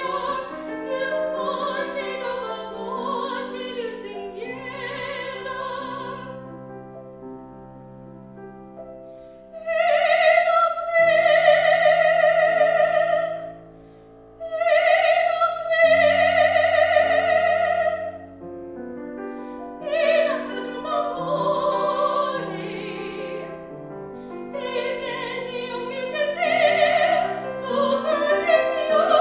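Classical solo singing in operatic style with wide vibrato, accompanied by piano, with long held high notes and a brief pause about halfway through.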